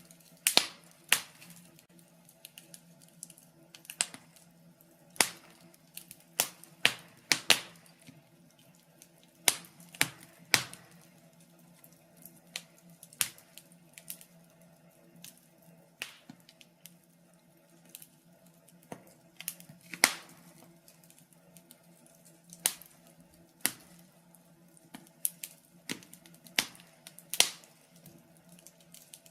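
Wood fire in a fireplace crackling: logs burning with irregular sharp pops and snaps, sometimes several close together and sometimes a second or two apart, over a faint steady low hum.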